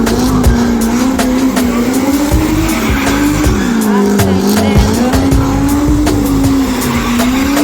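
Car engine held at high revs, its pitch rising and falling as the throttle is worked, with tyres squealing and skidding in a drift donut.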